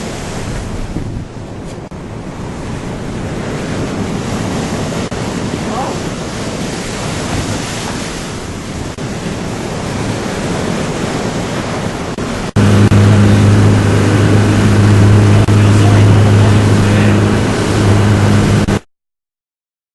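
Ocean waves and wind buffeting the microphone. About twelve seconds in it cuts suddenly to a louder, steady low engine drone: the tour boat's motor running.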